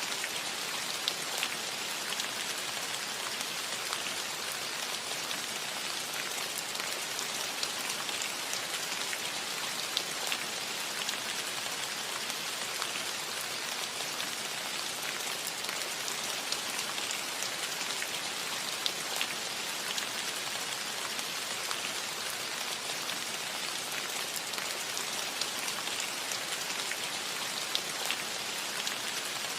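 Steady rain falling on a cottage roof: a dense, even hiss with many small drop ticks scattered through it.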